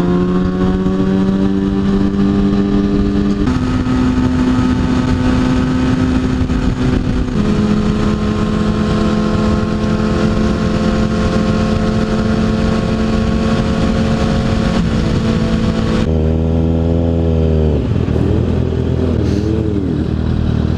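Kawasaki Ninja ZX6R inline-four engine running steadily at riding speed over heavy wind noise, its pitch stepping up and then down a couple of times. About sixteen seconds in, the revs fall away and the engine drops to a low idle.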